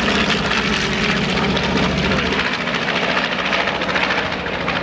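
North American B-25 Mitchell's twin radial engines running in a display pass, a steady loud propeller drone that eases slightly from about halfway through.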